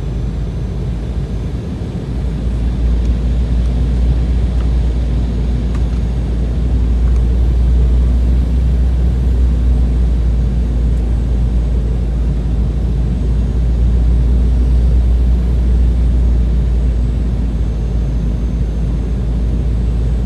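Loud, steady low rumble of an airliner cabin: jet engine and airflow noise, growing louder about two seconds in and then holding level.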